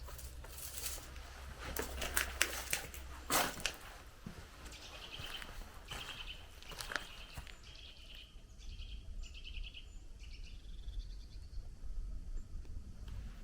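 Footsteps crunching on the forest path for the first few seconds, then a small bird calling in a string of short, rapid trills from about five seconds in, with fainter calls after. A low steady rumble runs underneath.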